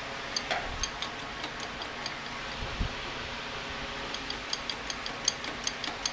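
Faint, sharp metallic ticks over a steady background hiss: a few scattered ticks at first, then about two to three a second from about four seconds in.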